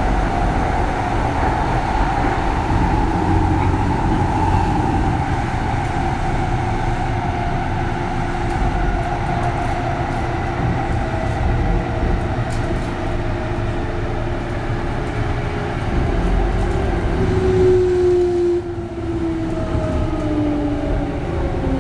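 Kintetsu 3200 series electric train running, heard inside a motor car. Its early Mitsubishi GTO-thyristor VVVF inverter gives a growling tone over the wheel and track rumble. The tone sinks slowly in pitch. Near the end several tones slide down together as the train slows.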